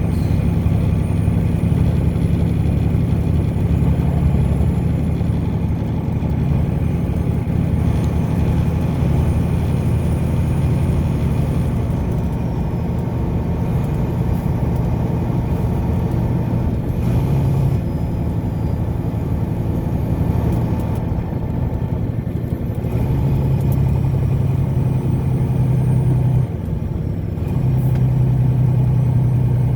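Car driving along steadily: continuous engine hum and road noise, with a brief dip in loudness near the end.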